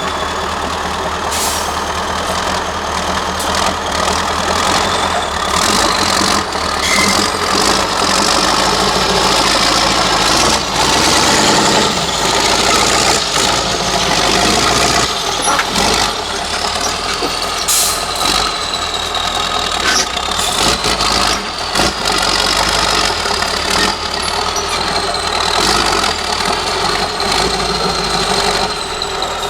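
Heavy off-road trial truck's diesel engine working steadily, with a high whine that rises and falls in pitch and a few sharp knocks and clanks from the truck.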